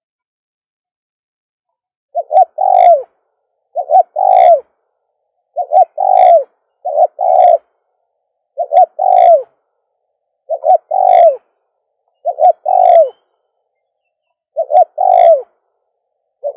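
Spotted dove cooing: a repeated phrase of a short coo followed by a longer, lower-ending coo, about eight phrases spaced under two seconds apart, beginning about two seconds in.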